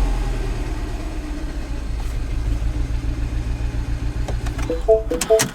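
Mini Cooper S Clubman's turbocharged four-cylinder running rough with an uneven, pulsing note: it is misfiring, with a flashing check engine light. Near the end come a few short two-note electronic beeps and clicks, and the engine sound then cuts off.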